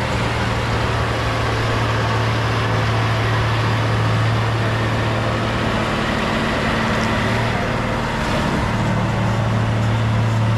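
Heavy diesel engine of earthmoving machinery, such as a bulldozer, running steadily: a constant low drone with noise spread across the range.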